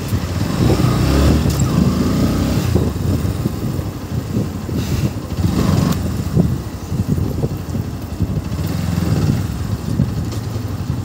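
KTM RC 390's single-cylinder engine running on its stock exhaust as the motorcycle is ridden, the revs rising and falling.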